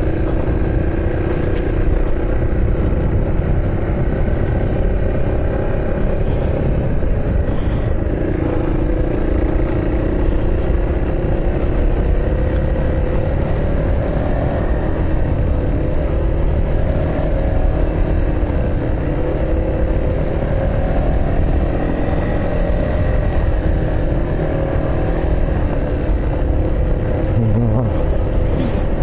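A vehicle engine running steadily under way, with a low road rumble and an engine drone that rises and falls slightly in pitch.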